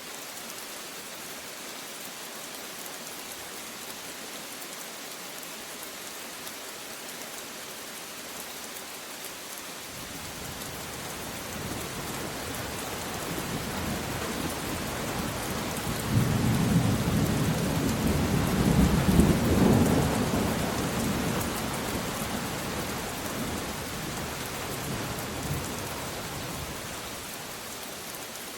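Steady rain falling, with a roll of thunder that builds about a third of the way in, is loudest a little past halfway, and rumbles away before the end.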